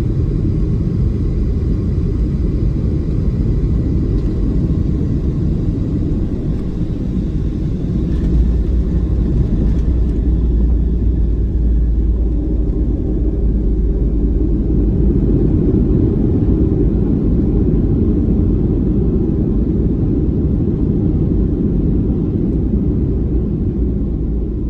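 Boeing 737-700 cabin noise during landing rollout: a loud, steady low rumble, with a faint high engine whine that fades out about ten seconds in.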